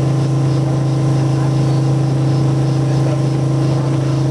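River motor ship's engine running with a steady low drone, one unchanging pitch with overtones above it.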